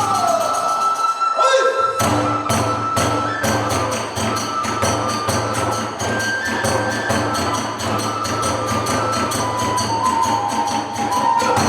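Kagura ensemble playing: a bamboo transverse flute holds and shifts long high notes over fast, evenly repeated drum and hand-cymbal beats, the percussion striking in about two seconds in.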